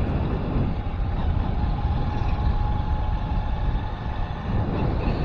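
Motorcycle engine running at a steady pace while riding, with steady road noise.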